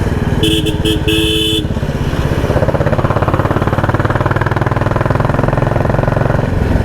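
Royal Enfield Classic 350 single-cylinder engine running under way with a loud, rapid thumping exhaust beat, the sound its rider calls a 'helicopter'. A vehicle horn toots two or three times in the first couple of seconds.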